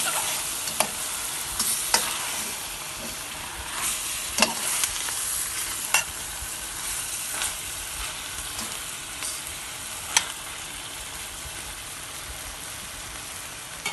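Raw chicken pieces sizzling in hot oil with tomato paste, onion and garlic in a metal pot while being stirred. A metal spoon clacks and scrapes against the pot every second or two over the steady sizzle.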